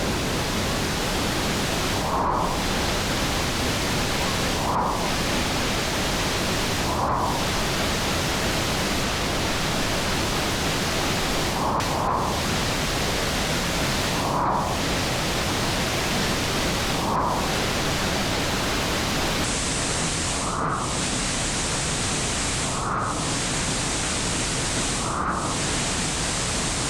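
Waterfall rushing: a loud, steady roar of falling water, with a faint recurring blip about every two and a half seconds.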